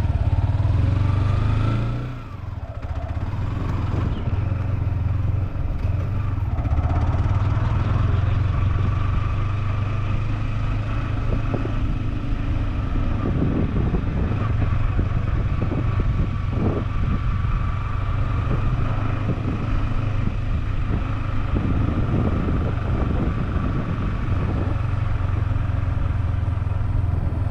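Yamaha R15 V4's single-cylinder engine running while riding. It revs up at the start, eases off about two seconds in, then holds a steady cruise.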